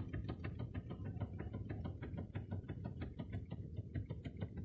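Rapid, irregular series of light knocks, several a second, from the steering column of a Nissan Sentra, over a steady low rumble. The owner traced the knock most likely to a loosened upper 10 mm bolt on the steering shaft's universal joint.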